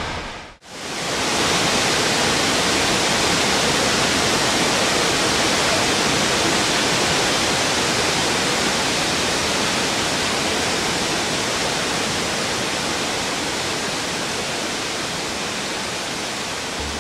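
Large waterfall: the steady rushing of heavily falling water. It drops out briefly about half a second in, then swells back and holds level.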